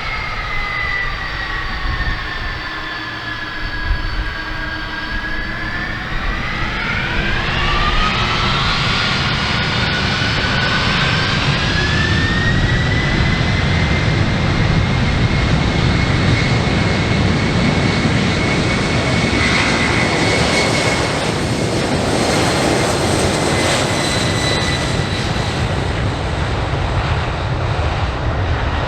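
A Boeing 747 LCF Dreamlifter's four Pratt & Whitney PW4062 turbofan engines running up for takeoff. The engines' whine rises in pitch over several seconds and then holds steady, while a loud rumble builds beneath it.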